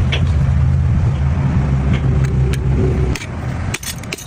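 A loud, steady low rumble that cuts off about three seconds in, followed by a few sharp clicks.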